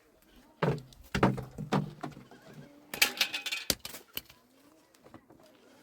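Sheep and goats bleating: a low, wavering bleat in a few pulses starting about half a second in, then a harsher, rougher bleat around three seconds in. A couple of sharp knocks follow it.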